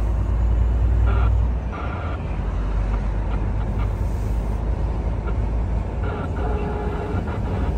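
Heavy truck on the move, with a steady low engine and road rumble heard inside the cab. The rumble eases a little about a second and a half in.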